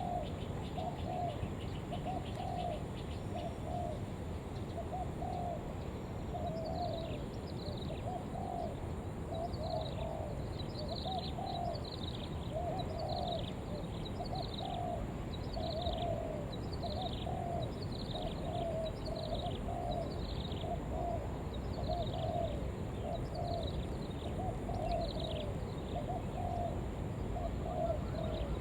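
Spotted dove cooing in a quick, even string of short coos: the rapid 'thúc' urging call of a decoy bird. From about six seconds in until near the end, a second bird adds high, falling chirps about once a second over a steady low background noise.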